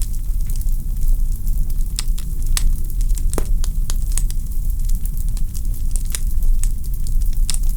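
Wood fire in a fireplace crackling: a steady low rumble of flames with irregular sharp pops and snaps from the burning logs, one stronger pop in the middle.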